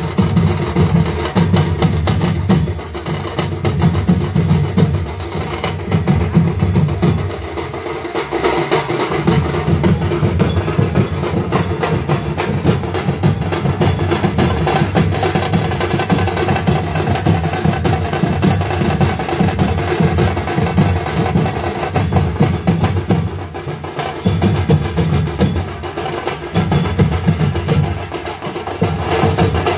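Percussion music: fast, dense drumming that keeps up without a break, heavy in the low drum tones.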